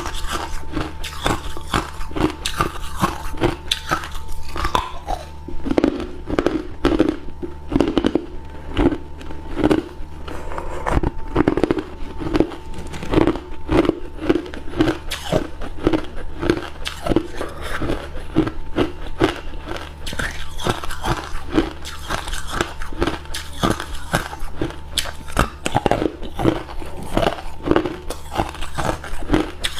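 A person biting and chewing hard ice cubes close to the microphone: a quick, steady run of sharp, loud crunches, several a second, over a faint steady low hum.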